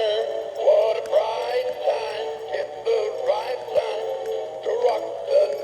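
Battery-powered singing Christmas toy playing a song through its small speaker, running on low batteries. The voice and music sound thin and tinny, with no bass.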